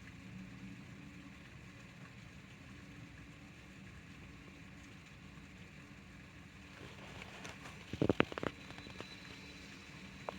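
Steady rain falling, with a low steady hum beneath it. About eight seconds in comes a quick cluster of sharp knocks, and one more near the end.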